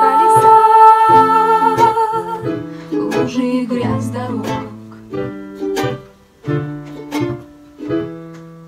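Ukulele strumming with piano, playing the closing bars of the song: a long held high note over the first two seconds, then chords that thin out and end on a final chord ringing out.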